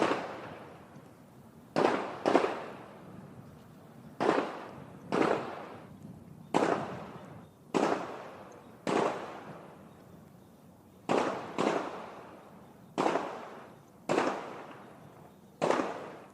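Gunfire at a shooting range heard from far off: about a dozen single shots at irregular intervals, some in quick pairs, each followed by a long echoing tail.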